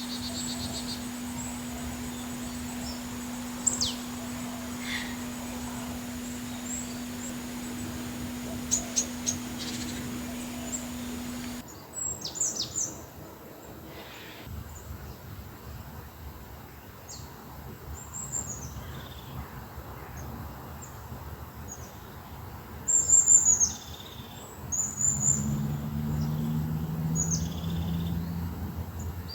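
Birds chirping and calling, short high calls scattered through. A steady low hum underneath stops abruptly about twelve seconds in, where the recording changes.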